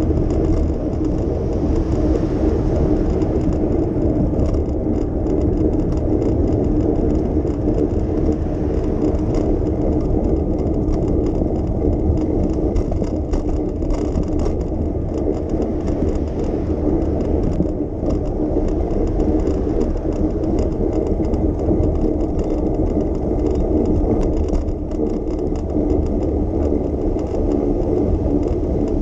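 Steady rolling noise of a bicycle in motion: tyre hum and wind on the microphone, with light rattling throughout.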